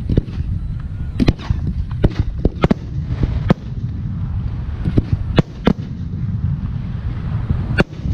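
Aerial firework shells bursting in quick succession: about a dozen sharp bangs at irregular intervals over a steady low rumble.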